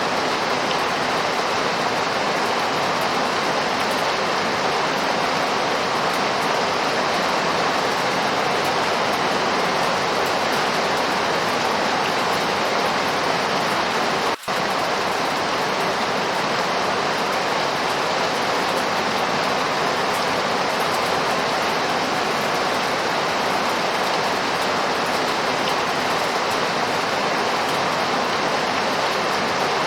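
Steady heavy rainfall, an even rushing hiss with no let-up, broken only by a momentary gap about halfway through.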